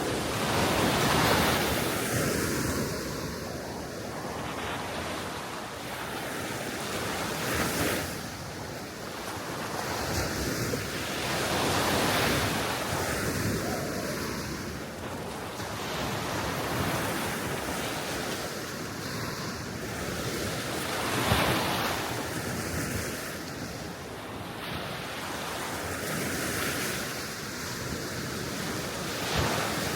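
Small, gentle sea waves washing onto the shore, swelling and falling back every few seconds, with wind blowing over them.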